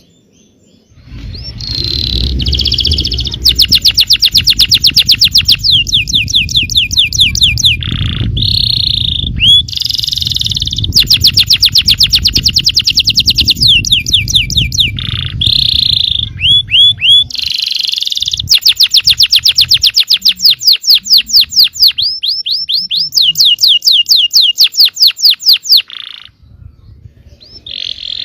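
Yellow canary singing long, fast trilled phrases: rapid rolls of repeated sweeping notes, broken by short pauses. A low rumble sits under the song for about the first half.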